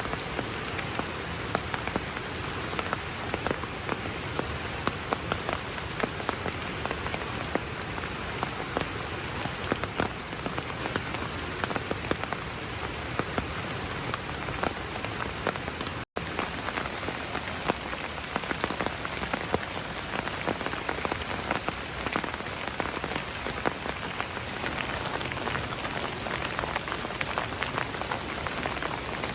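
Heavy rain falling steadily, its many separate drops striking close by as a dense spray of fine ticks over a constant hiss. The sound drops out for a split second about halfway through.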